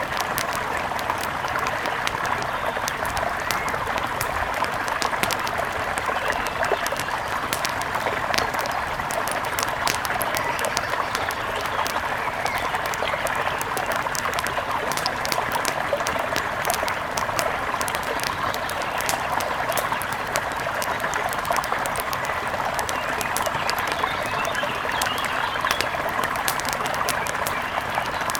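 A steady rush of a flowing river, with frequent sharp pops and crackles of a wood fire scattered over it.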